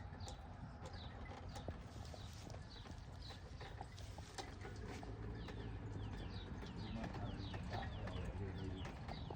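Small birds chirping over and over in short, falling notes, several a second and thicker in the second half, over a low rumble with scattered clicks.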